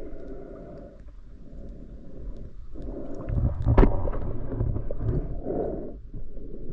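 Muffled water gurgling and sloshing in long surges, with one sharp knock about four seconds in.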